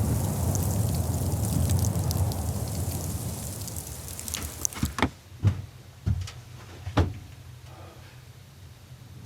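A steady rushing noise with scattered faint ticks, fading away over the first half, then five sharp knocks spread over about two and a half seconds.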